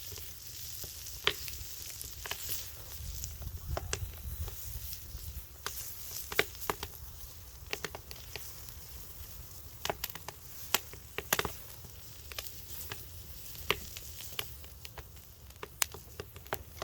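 Log firewood fire crackling: irregular sharp pops and snaps over a steady sizzling hiss.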